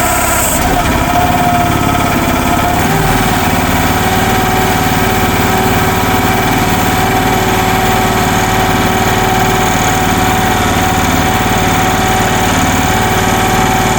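Future FT15 mini excavator's engine running steadily; its note wavers at first and then holds steady from about three seconds in.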